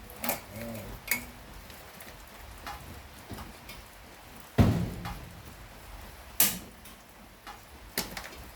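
Steady rain falling, with a handful of sharp knocks and clicks from objects being handled; the loudest is a heavy thump about four and a half seconds in.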